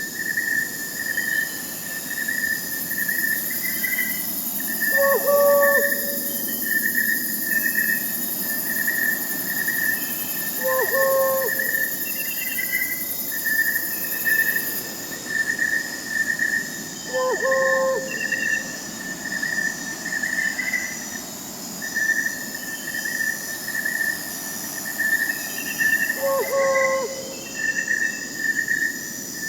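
Night-time insect chorus: crickets chirping in a steady pulsing trill, with fainter high insect tones above. An owl calls four times over it.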